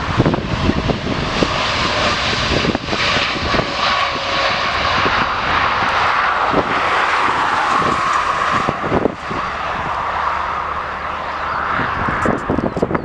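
An airliner's engines running loudly and steadily as the aircraft moves past on the runway, falling away near the end.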